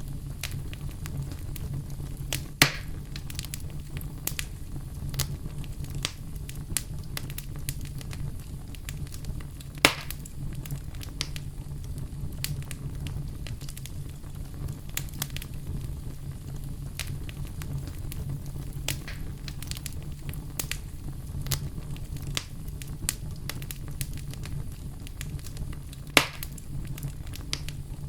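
Wood campfire crackling over a steady low rumble, with many small snapping clicks and three louder pops spread through.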